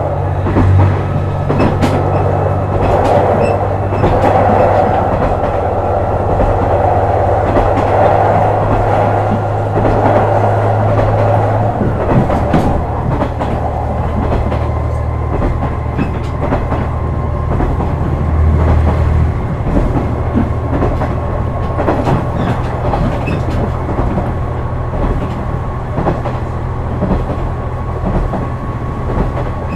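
JR West KiHa 126 series diesel railcar under way: a steady diesel engine drone with the wheels clicking over rail joints. The engine note shifts lower about twelve seconds in.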